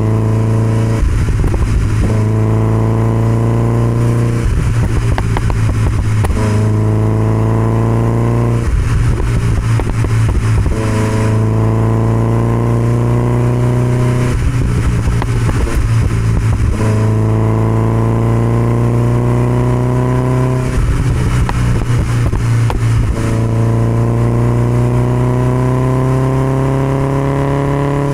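1969 Alfa Romeo Spider 1750's twin-cam four-cylinder engine running at road speed through an Alfaholics exhaust, its pitch creeping slowly upward. Every few seconds a rough rushing noise swells over it for a couple of seconds.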